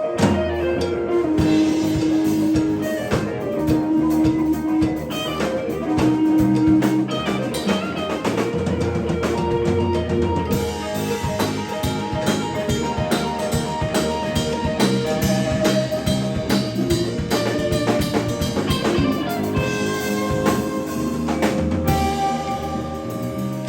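A live band playing an instrumental passage: electric guitar with bass and a drum kit, with sustained held guitar notes over a steady beat.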